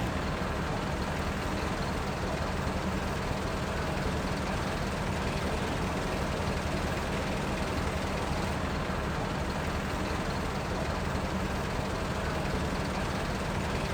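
Steady city street background with a vehicle engine idling: an even low hum over traffic noise that does not change.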